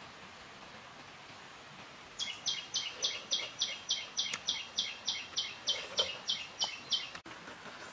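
A bird calling: a fast run of about seventeen identical high notes, three or four a second, starting about two seconds in and cutting off suddenly near the end, over a faint steady forest background.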